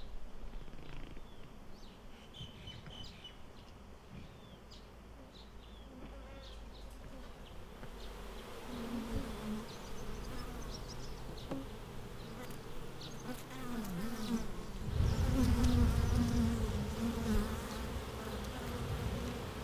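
Honeybees buzzing around an open hive. The buzz comes in about halfway through with a wavering pitch and grows louder, and a low rumble joins it for the last few seconds.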